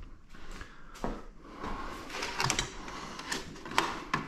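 Scattered light clicks, clanks and rattles of hand tools and metal parts being handled, one knock about a second in and a busier run of clinks over the last two seconds.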